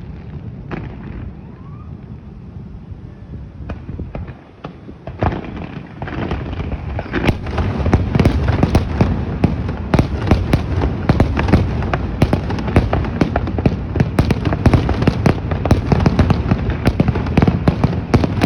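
Fireworks bursting: a few scattered bangs at first, then from about seven seconds in a dense, louder barrage of rapid bangs and crackles that keeps on.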